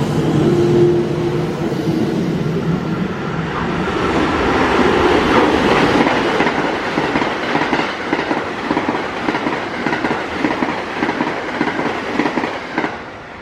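Electric train on the JR Kyoto Line running past the platform. A steady hum at first gives way to wheels clattering rapidly over rail joints, and the sound drops off suddenly near the end.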